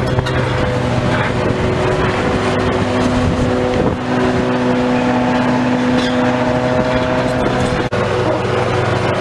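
Heavy demolition machinery running: a steady, loud engine drone with a held hum that shifts a little in pitch over an even mechanical noise.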